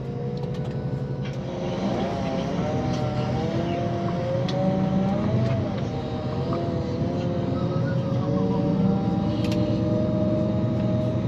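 Tour coach's engine running steadily as it drives the volcano route, with a constant low hum and a higher whine that slowly rises and falls in pitch.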